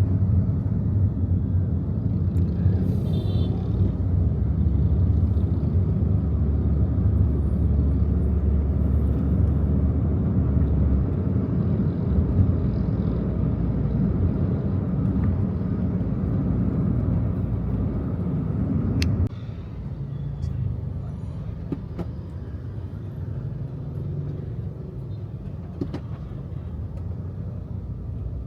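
Car running on the road, heard from inside the taxi's cabin: a steady low rumble of engine and tyres. About two-thirds of the way through, the rumble drops suddenly to a quieter level.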